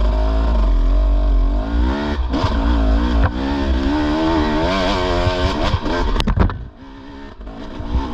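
Dirt bike engine revving up and down with the throttle while riding a rough backwoods trail, with a few sharp knocks and clatter of the bike over the ground about six seconds in, after which the engine drops back for a moment.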